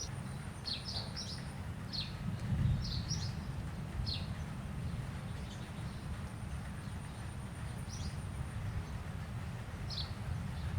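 Small birds chirping with short, high, downward-sliding chirps, several in quick succession in the first few seconds and then one every couple of seconds, over a steady low rumble.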